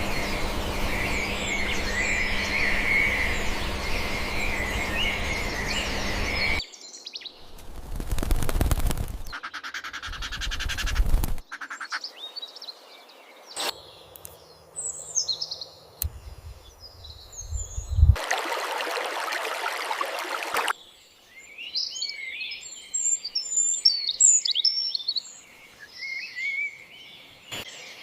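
Birds chirping and singing across a string of forest ambience recordings that cut abruptly from one to the next. Some stretches carry a steady rushing noise under the birdsong; others are quiet between calls.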